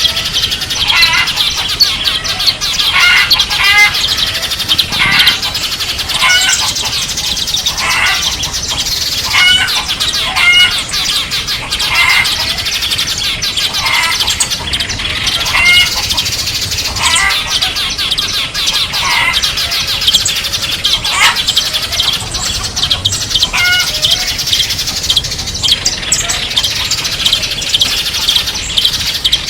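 Several small songbirds calling at once: a dense, continuous high twittering, with a short series of chirps repeated about every second or so over it.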